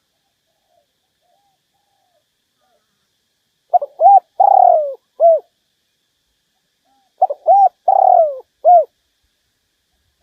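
Spotted dove cooing: two loud phrases about three and a half seconds apart, each a pair of short coos, a longer falling coo and a short final note. Softer, fainter coos come before them. This is the male's song used as a decoy call to draw wild males in to fight.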